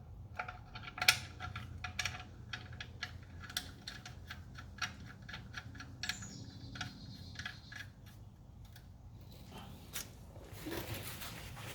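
Irregular small metal clicks and clinks as the oil drain plug and tools are handled while the plug is refitted to the oil pan, over a faint low hum.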